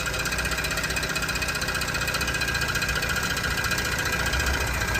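BMW E90's engine idling with a fast, steady metallic rattle from underneath: the starter motor's one-way pinion gear is not retracting and rubs against the flywheel ring gear.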